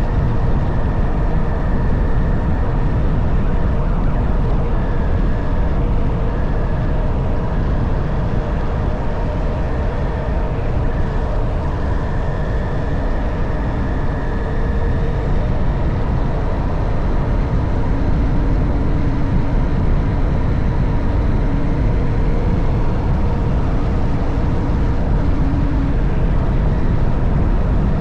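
Honda CB190R motorcycle riding along, its single-cylinder engine running at a steady, slightly shifting pitch under heavy wind rush on the microphone.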